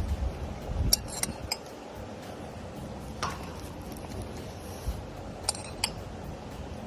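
A handful of light, sharp clinks and clicks, like dishes or metal utensils knocking, scattered over low room noise. The clicks cluster about a second in and again near the end.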